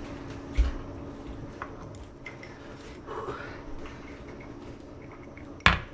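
Small tabletop handling sounds: a dull bump about half a second in, a few light clicks, and a sharp knock near the end, over a steady low hum.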